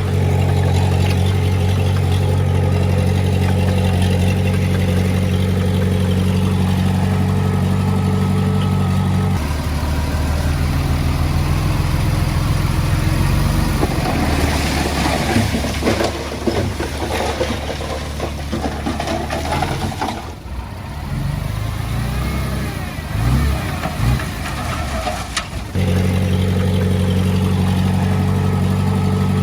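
Diesel engine of heavy earthmoving equipment running with a steady low hum. About nine seconds in the sound changes, turning busier and uneven in its middle stretch, and it snaps back to the steady hum near the end.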